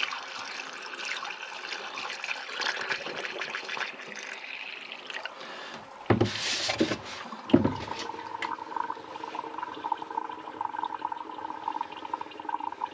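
Water being poured from a container into the radiator filler of a Fordson Power Major tractor, trickling and splashing. About six seconds in it turns louder for a couple of seconds, then settles into a steadier pour.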